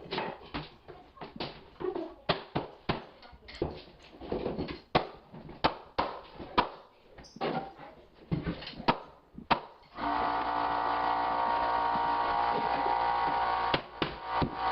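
Irregular knocks and taps of hardwood floor boards being handled and fitted together. About ten seconds in, a steady motor hum starts abruptly, with a short dip near the end.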